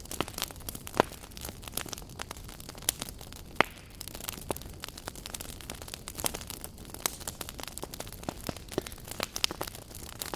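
Wood fire burning in a fireplace, with irregular sharp crackles and pops over a steady low hiss and rumble of flame.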